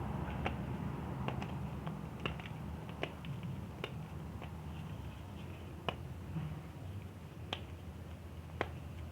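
Chalk crunching and cracking as it is crushed: sharp, crisp snaps at irregular intervals, about one or two a second.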